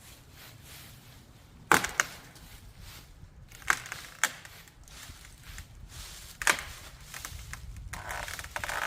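Sharp cracks of dry wood, five in all, spaced a second or two apart, from kindling being broken or handled. A longer rustle follows near the end.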